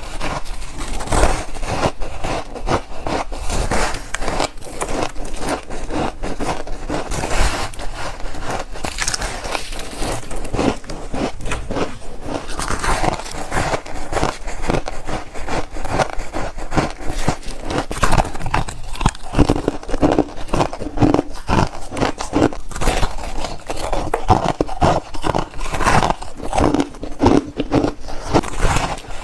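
Close-up biting and chewing of freezer frost bars: a dense, unbroken run of crunchy crackles and snaps.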